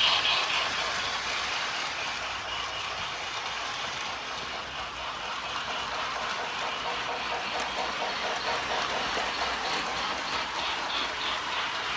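Lionel O scale Thomas & Friends toy train running on its track: a steady rolling rattle of wheels on metal rail.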